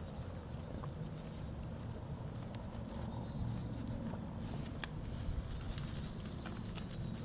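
Soft, scattered steps and light clicks on the ground over a low rumble, with one sharper click about five seconds in.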